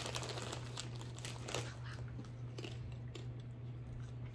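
Quiet chewing of crunchy cheese puff snacks, small crackles of the puffs breaking in the mouth, over a steady low hum.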